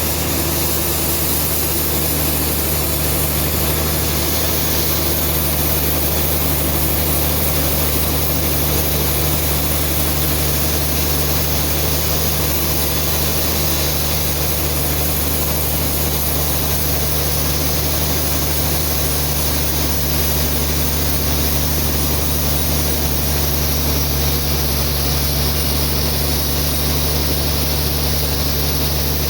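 Sawmill band saw running steadily: a constant low machine hum with a dense hiss over it.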